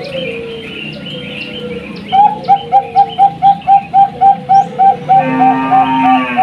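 Bangkok perkutut (zebra dove) singing. After about two seconds of light chirping from small birds, a loud, rapid run of short coo notes starts at about four a second, with a longer low coo over it near the end.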